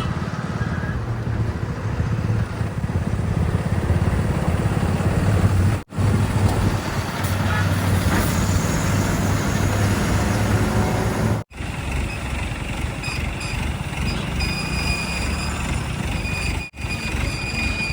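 Heavy diesel vehicle engines running at a steady working pitch, in several short clips joined by abrupt cuts. In the later clips, thin, steady high-pitched tones sound over the engine.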